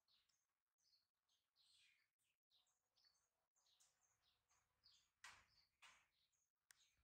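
Near silence with faint, repeated bird chirps in the background, and a brief soft noise about five seconds in.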